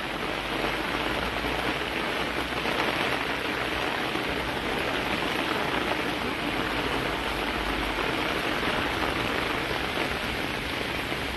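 Rain falling steadily onto a flooded street.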